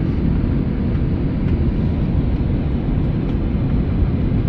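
Steady cabin noise of an Airbus A319-100 in flight or on the ground, heard from inside the cabin: the even, low rumble of its jet engines and the air around the fuselage.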